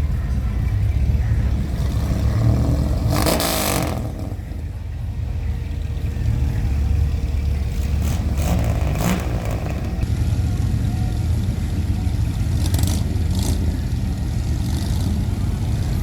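Deep, steady rumble of classic car engines driving past at low speed, with a few brief noisy bursts over it.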